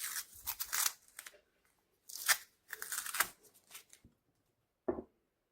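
Masking tape being peeled off a knife handle in a series of short rasping rips, followed by a single sharp click near the end.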